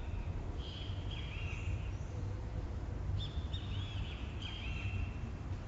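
Great kiskadees calling: arching notes in two bursts, about half a second in and again around three seconds, over a steady low rumble.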